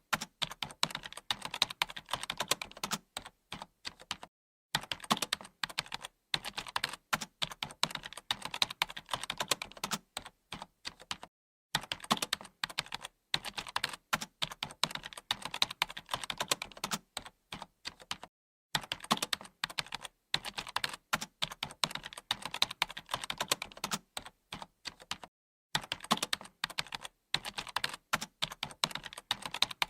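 Continuous typing on a computer keyboard: rapid, irregular key clicks in runs, broken by short pauses about every seven seconds.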